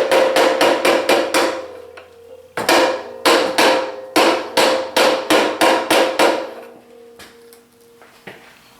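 Mallet tapping a bearing home through a 3/4-inch socket held on its inner race: quick metallic strikes at about four a second, each leaving a short metallic ring. There is a run of about five strikes, a pause of about a second, then a longer run of about a dozen, and a couple of faint taps near the end.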